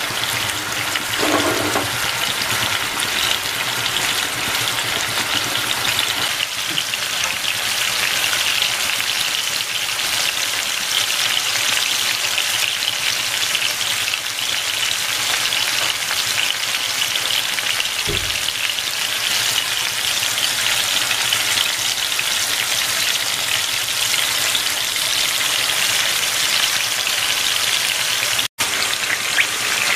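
Large prawns shallow-frying in hot coconut oil in a pan, a steady sizzle of bubbling oil, half-frying them for a roast. There is one short knock about two-thirds of the way through, and the sound cuts out for an instant near the end.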